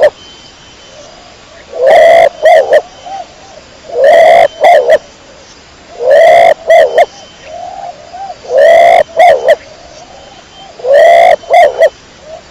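Domestic pigeon cooing in repeated phrases, one about every two seconds: a longer coo, then two short notes, then softer trailing coos.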